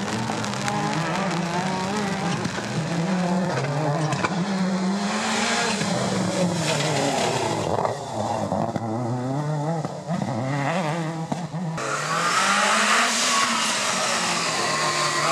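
Rally car engine revving hard, its pitch climbing and dropping again and again through gear changes. About twelve seconds in the sound switches abruptly to another car accelerating, with more hiss and rising pitch.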